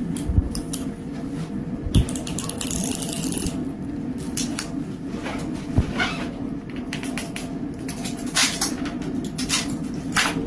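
Irregular sharp cracks and crackles over a steady machine hum, with a burst of hissing air about two seconds in: the sound of hands-on composite mould work.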